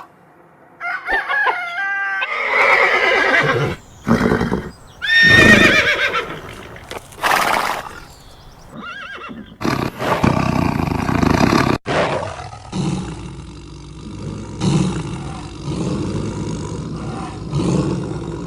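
Horse neighing: a run of loud, pitched whinnies in the first half, followed by a longer stretch of lower, rougher animal sound.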